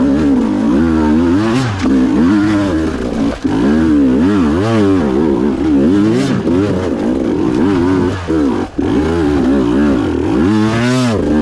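Two-stroke dirt-bike engine under hard throttle, its pitch sweeping up and down again and again as the throttle is worked. The sound drops out briefly twice, about three and a half and nine seconds in.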